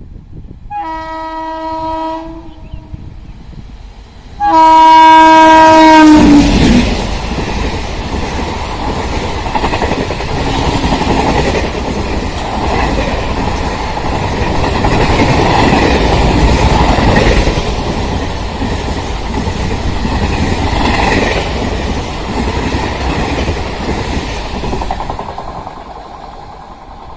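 Indian Railways express train sounding its horn twice on approach: a short blast, then a very loud second blast that drops in pitch as the locomotive passes. The coaches then run past at speed with a steady rush and wheels clicking over the rail joints, fading near the end.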